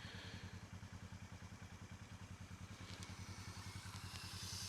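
An engine idling steadily with a rapid, even pulsing, and a faint hiss of water running from a hose into a stock tank.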